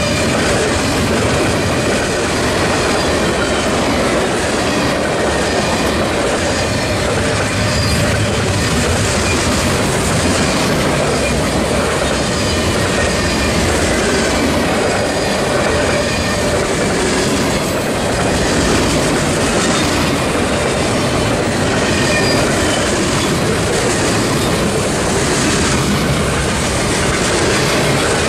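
Freight train of covered hopper cars and tank cars rolling past, its wheels clacking steadily over the rail joints, with occasional faint high wheel squeal.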